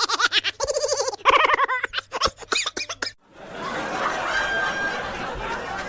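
High-pitched laughter in rapid, pulsing bursts, cutting off about three seconds in; after that a steady background hubbub with faint voices.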